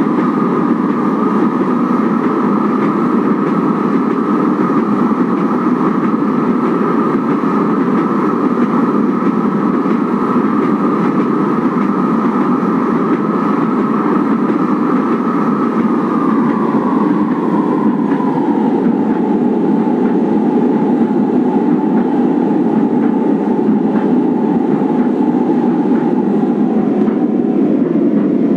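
Manila LRT Line 1 1200-series light-rail train running with a steady rumble of wheels on track. Its motor whine holds steady, then drops in pitch a little past halfway as the train slows.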